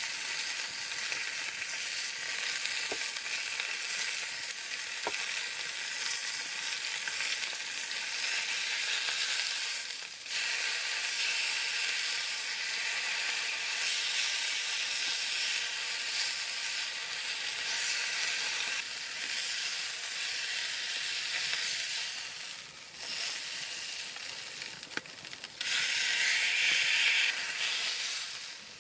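A steady sizzling hiss with a few faint crackles, dipping briefly a few times.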